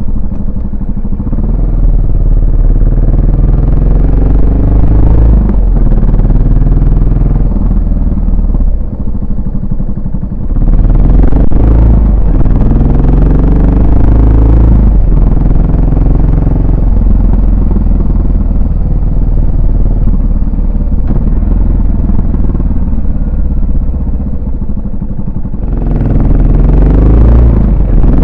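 Yamaha SR400's single-cylinder engine and exhaust while riding, its pitch rising and falling as it accelerates and eases off. It opens up louder about ten seconds in and again near the end.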